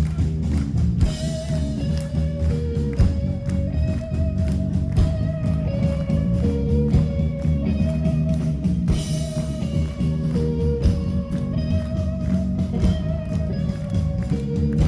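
Live band music with a steady beat and a melody of long held notes.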